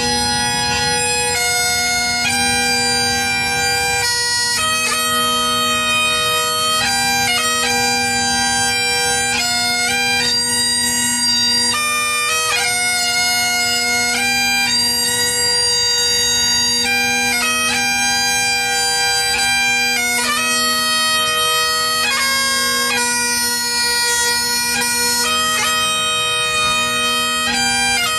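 A Highland bagpipe playing a slow tune: the steady drones hold one low note beneath the chanter's melody, which moves from note to note throughout.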